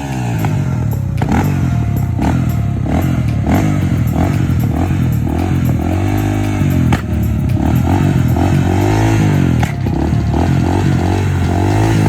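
Off-road recreational vehicle engine being ridden, its pitch climbing and dropping again and again as the throttle opens and closes, with many short rattles and knocks over it.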